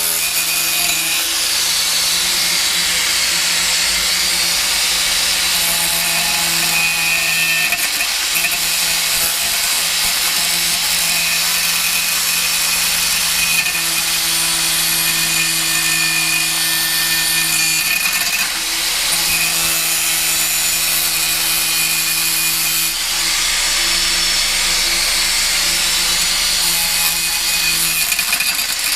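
Angle grinder with a thin stainless-steel cut-off disc cutting through a thick stainless steel motorcycle header pipe: a steady, loud grinding whine over the motor's hum, easing briefly a few times as the disc is worked along the cut.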